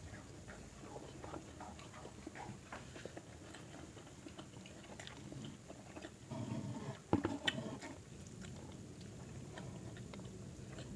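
A person chewing and biting food, with small soft mouth clicks throughout. A louder stretch comes a little past halfway, with one sharp click.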